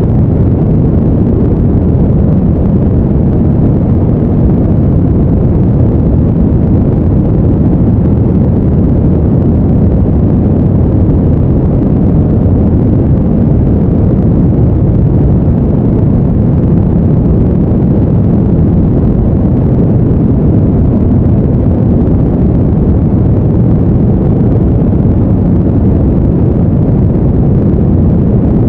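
Steady, deep rushing noise, heaviest in the bass and thinning toward the treble, with no changes: a continuous brown-noise-style sleep sound.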